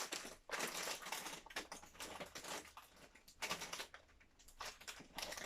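Plastic packaging crinkling and rustling as it is handled and opened, a dense run of small irregular crackles that eases off about two thirds of the way through.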